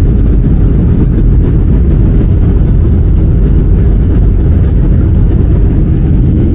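A loud, steady low rumble with no breaks.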